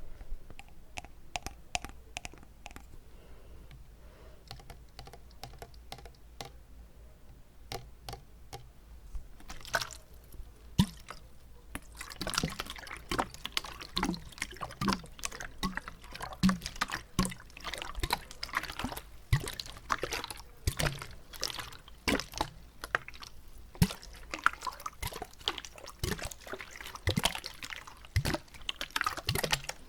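Wet mouth sounds made with water in the mouth: small wet clicks, pops and swishes, sparse at first, then coming thick and fast from about a third of the way in.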